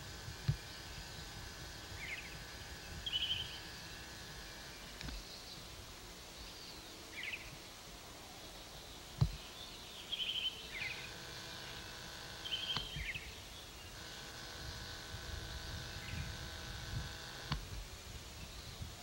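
Short bird chirps now and then over outdoor background noise, with a steady hum that starts and stops a few times and a couple of sharp thumps.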